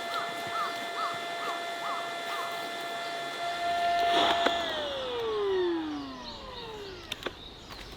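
A small motor whining at a steady pitch, then switched off about four and a half seconds in and winding down in pitch over about two seconds. A short chirp repeats about twice a second during the first couple of seconds.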